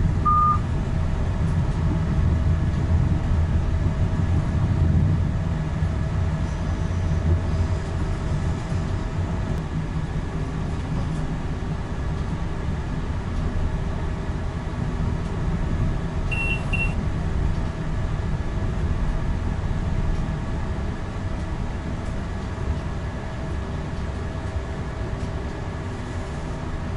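Renfe Class 120 Alvia electric train running, heard from the driver's cab as a steady low rumble of wheels on rail. A short electronic beep sounds just after the start, and a quick double beep about sixteen seconds in.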